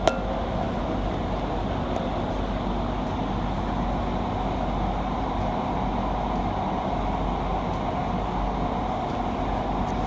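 Qatar metro train running between stations, heard from inside the carriage: a steady rumble with a faint held whine.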